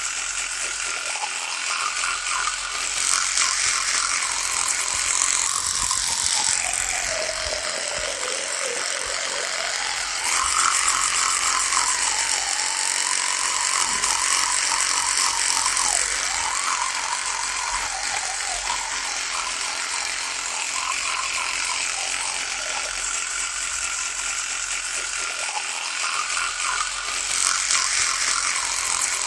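Electric toothbrush running continuously with a steady mechanical buzz. Its pitch sinks and climbs back up about a quarter of the way in, and it wavers in pitch and loudness a few more times.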